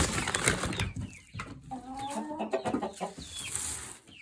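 Domestic chickens clucking, with one hen giving a drawn-out call about two seconds in and a short high chirp near the end. A rustling noise fills the first second.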